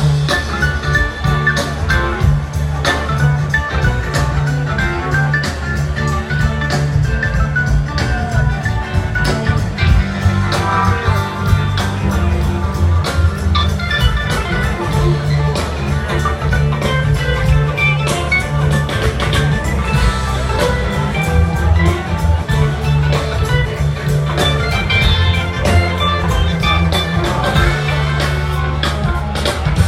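Live blues-rock band playing an instrumental passage: guitar and organ over bass and a steady drum beat.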